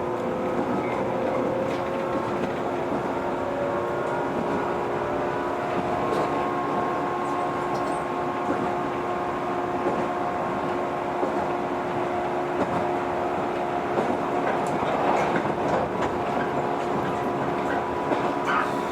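Running sound of a JR 115 series electric multiple unit heard from inside the car: a steady rumble with a hum of drive tones as the train travels between stations. A few clacks over the rails come near the end.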